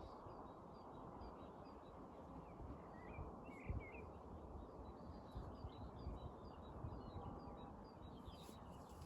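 Birds chirping faintly: a thin high chirp repeating every third of a second or so, with a louder twittering call about three and a half seconds in, over a steady low rushing background.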